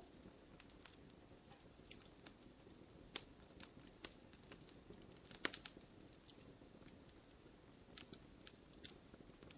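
Wood fire crackling in a fireplace: faint, scattered sharp pops and snaps over a low hiss, with a quick run of several pops about halfway through.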